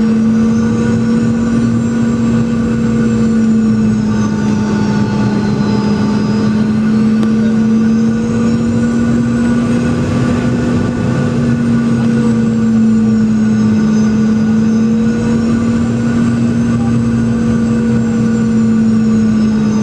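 Boeing 717's twin tail-mounted BR715 turbofan engines running steadily, heard from inside the rear cabin: a strong low hum with a high whine that slowly rises and falls in pitch every several seconds.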